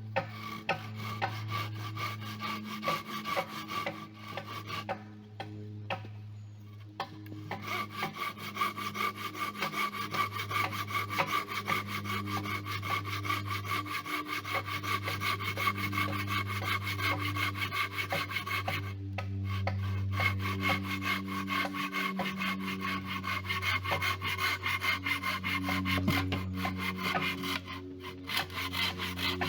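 Wood being sawn or rasped in fast, even strokes that stop briefly a few times, over background music with low held notes.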